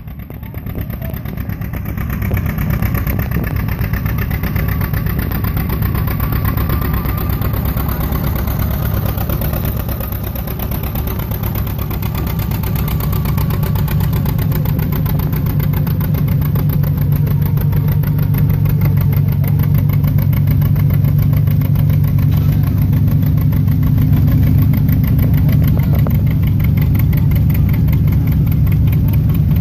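Tractor engine running with a strong low drone, growing louder about halfway in and then holding steady.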